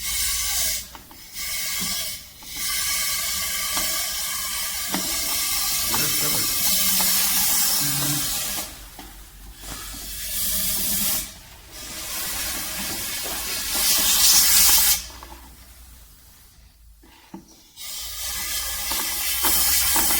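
Aerosol solvent cleaner spraying in long hissing bursts with short breaks between them, washing built-up deposits out of a hydraulic fluid reservoir. A longer pause comes about three quarters of the way in before the spraying starts again.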